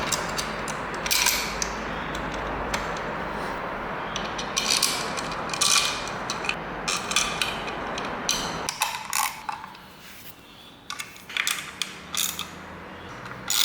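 Quarter-inch socket ratchet clicking in short runs as engine-cover bolts are driven in, over a steady background noise that drops away about two-thirds of the way through.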